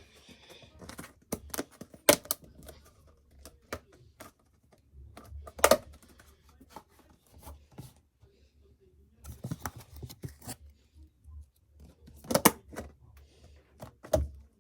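Zanussi FL984CN front-loading washing machine early in its 35° cycle: irregular clicks and knocks over a faint low hum, loudest about two seconds in, near six seconds and twice near the end.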